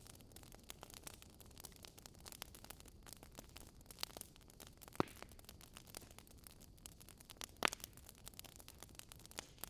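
Fire pit fire crackling with many small, irregular snaps, and two louder pops, about halfway through and again a couple of seconds later.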